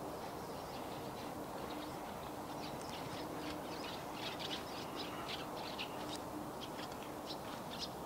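Birds chirping in quick runs of short, high calls through the middle and latter part, over a steady outdoor background hum with a faint, on-and-off low tone.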